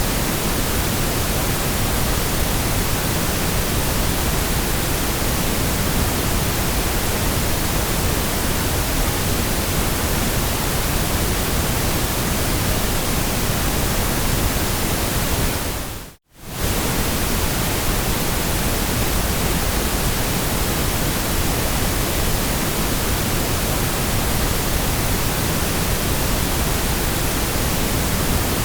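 Steady, even hiss of generated white noise with no pattern, tone or events in it. About halfway through it fades out for a split second and comes straight back.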